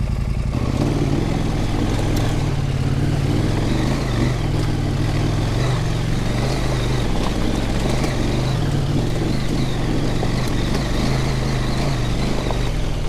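Husqvarna Norden 901 adventure motorcycle's parallel-twin engine running steadily as the bike rides on, with light clatter over the top.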